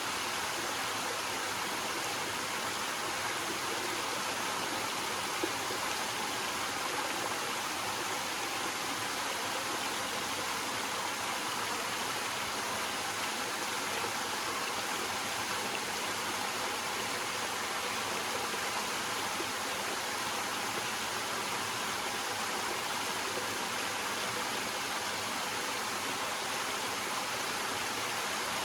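Small waterfall: water spilling steadily over rocks in a constant splashing rush.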